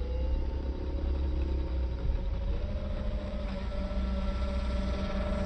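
Electric motor and propeller of a homemade foam RC airplane, a steady whine that wavers slightly in pitch and creeps up, with a low wind rumble underneath.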